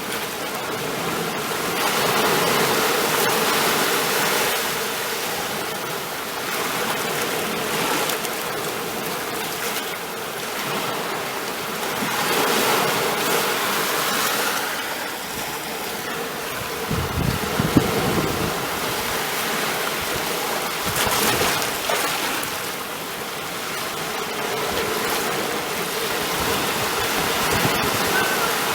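Ocean waves breaking and washing ashore, a steady surf hiss that swells and eases every few seconds, with a heavier low rumble of a breaking wave about two-thirds of the way through.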